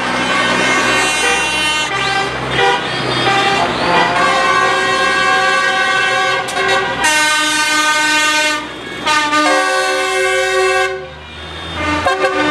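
Tractor horns honking in a parade, several held tones overlapping, with two long blasts in the second half over a low engine rumble.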